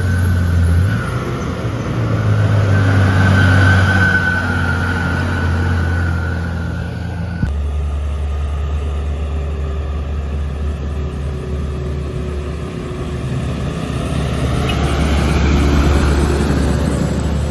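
Heavy diesel truck engines labouring steadily up a hill, with an abrupt change in the engine sound about seven seconds in.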